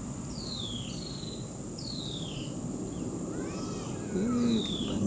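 A bird calling outdoors with short falling whistles, three times. About four seconds in there is a brief, lower call with several harmonics over steady background noise.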